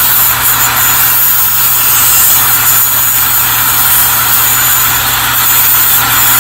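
A power tool running steadily on sheet metal: a loud, even hiss over a constant low hum.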